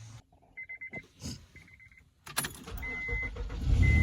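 A vehicle's warning chime pulses twice, then there is a click and the engine cranks and starts, running loudly by near the end. A steady beep sounds about once a second over the running engine.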